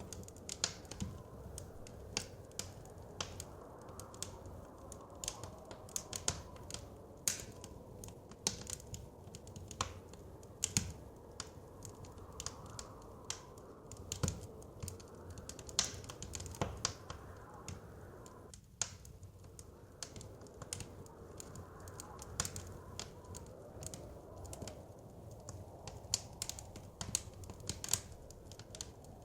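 Wood fire crackling in a fireplace, with irregular sharp pops and snaps several times a second over a low, steady whoosh of blizzard wind. The low background cuts out for a split second about two-thirds of the way through.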